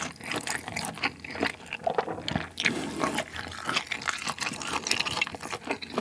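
Close-miked chewing of a thick chunk of pork neck in curry sauce, a steady run of irregular clicks and smacks from the mouth.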